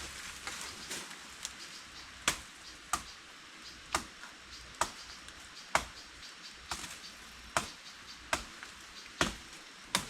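Chopping with a blade, a sharp strike about once a second, starting about two seconds in.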